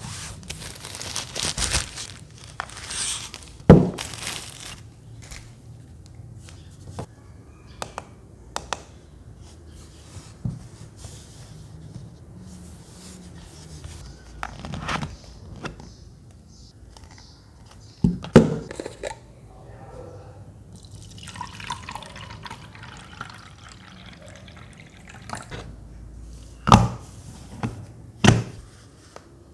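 Water trickling and dripping into a small plastic humidifier tank, among scattered clicks and a few sharp plastic knocks from handling.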